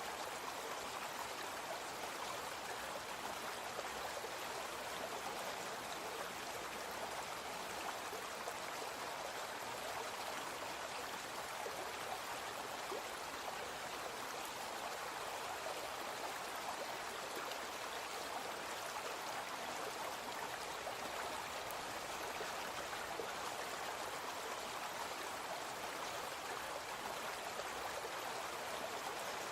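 A brook flowing steadily, its water rushing and gurgling.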